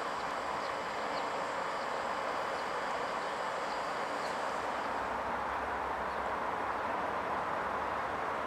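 Steady, even hiss of electric trains standing at a station, with a bird chirping every half second or so for the first four seconds. A low rumble joins about five seconds in.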